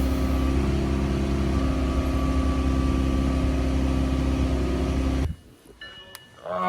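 McLaren 650S twin-turbo V8 running at a steady speed during the oil-level check after an oil change. The sound ends abruptly about five seconds in.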